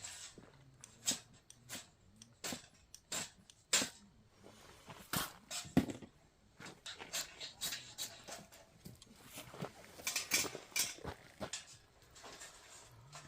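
Campfire crackling, with sharp irregular pops and snaps from the burning wood.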